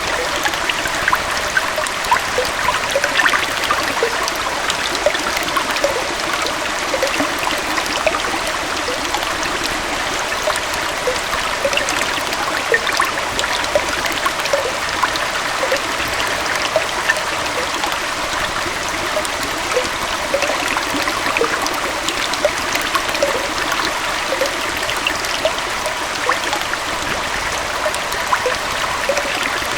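A small forest waterfall and stream flowing: a steady rush of falling water with many small splashes and trickles.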